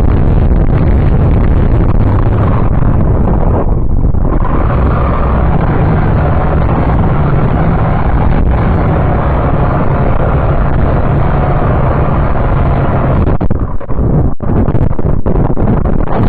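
Syma X5C-1 quadcopter's small electric motors and propellers running steadily, buffeted by heavy wind noise on the microphone. In the last few seconds the sound turns choppy, broken by several sharp dropouts.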